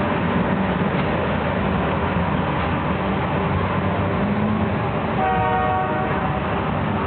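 Train running with a steady rumble. About five seconds in, its horn sounds once for a little over a second.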